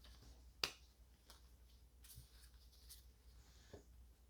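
Near silence with one sharp click less than a second in and a few faint ticks: quiet handling of trading cards.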